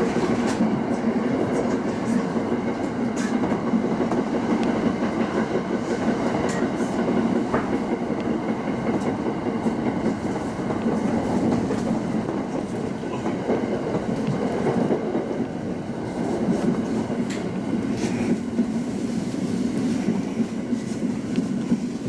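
Local train running on the Tsugaru Line, its steady running rumble broken by irregular clicks of the wheels over rail joints, as it nears a station stop.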